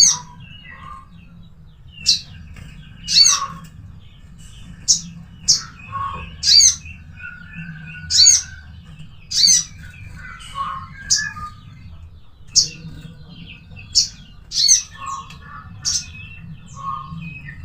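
Crimson sunbird (sogon) calling with short, sharp, high chirps about every second or so, some sliding down in pitch, with softer, lower notes between them. A steady low hum runs underneath.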